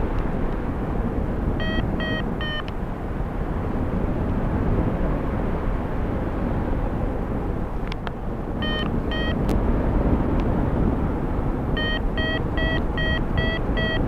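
Wind rushing over the microphone in flight, with a paragliding variometer beeping: a few beeps about two seconds in and again about nine seconds in, then steady beeping about three times a second from about twelve seconds in, the vario's signal that the glider is climbing in lift.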